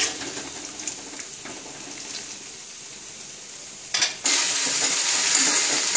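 A thick curry simmering quietly in a pan. About four seconds in, it gives way to loud, steady sizzling of sliced okra frying in oil.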